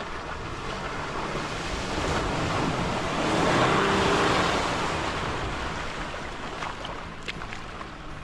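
Land Rover Discovery 4 driving into a deep puddle: its engine runs under a wash of water surging and splashing around the body. The water noise builds to its loudest about three and a half seconds in, then eases off.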